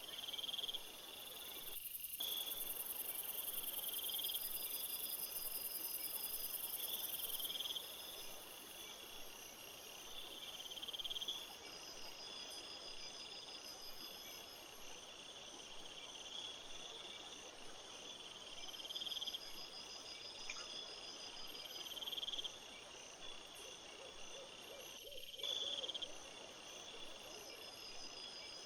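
Crickets singing in a steady chorus. One repeats a buzzy phrase that swells every one to two seconds, and another keeps up a faster high trill, over a faint hiss.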